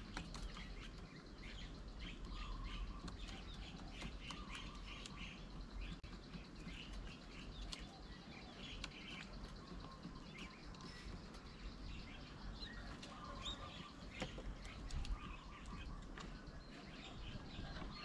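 Birds chirping and calling in a steady run of short high notes, with a few lower whistled notes and scattered short clicks and taps.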